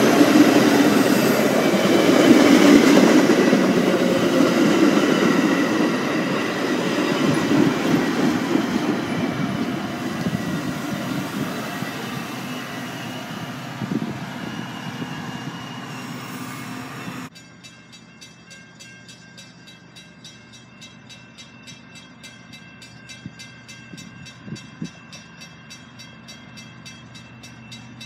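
Metra commuter train's bilevel passenger cars rolling past on the rails, with the cab car at the rear. The noise fades as the train moves away, then drops off suddenly about two-thirds of the way through to a quiet background with faint regular ticking.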